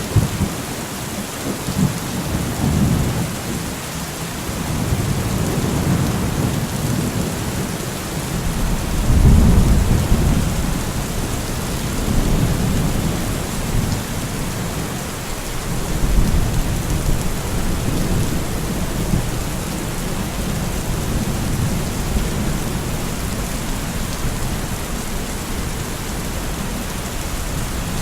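Steady heavy rain falling, with rolling thunder rumbling underneath in swells, the loudest rumble about nine seconds in and another around sixteen seconds.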